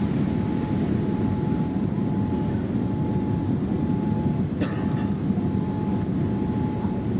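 Steady cabin noise inside a Boeing 787-8 airliner: an even low rumble of engines and airflow with a faint steady tone above it. A single brief click comes about halfway through.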